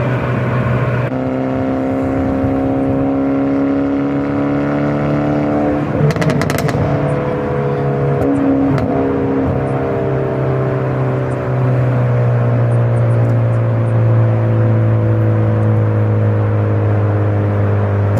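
Hyundai Avante N (Elantra N) 2.0-litre turbocharged four-cylinder engine and exhaust running under way, its note climbing slowly, with a brief cluster of sharp pops about six seconds in, then a steady, gently falling drone.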